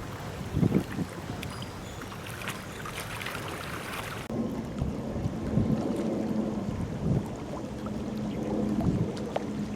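Wind gusting on the microphone over open water. About four seconds in the sound changes abruptly to a steady low drone from a vessel's engine, still with wind noise.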